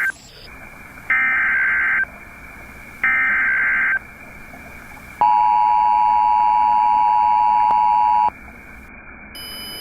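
Emergency Alert System tones: two one-second bursts of the SAME data header's warbling digital screech, then the steady two-tone attention signal held for about three seconds, announcing a flash flood warning.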